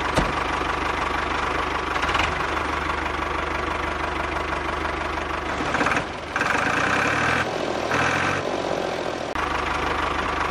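Tractor diesel engine running with a steady knocking chug, a recorded engine sound laid over the string-pulled toy tractor. For about three seconds past the middle its tone changes, with a higher whine on top.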